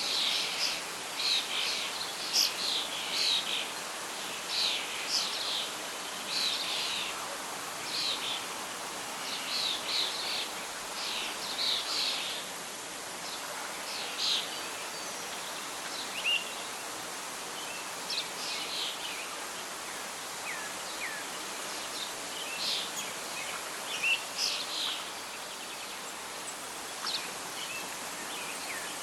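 Birdsong: many short chirps and calls, thick in the first half and sparser later, over a steady wash of soft wind and rustling leaves.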